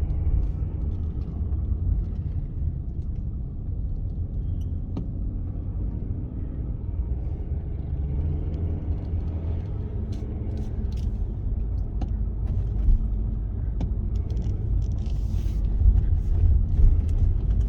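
Steady low rumble of a car moving off, heard from inside the cabin, with a few faint light clicks.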